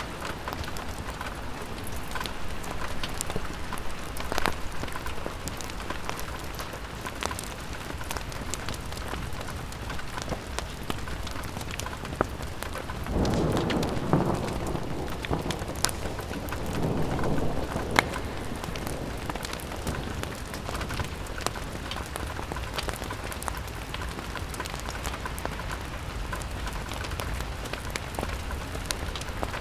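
Steady rain falling on a window pane, with scattered sharp drips and taps. A low rumble swells up around the middle and fades.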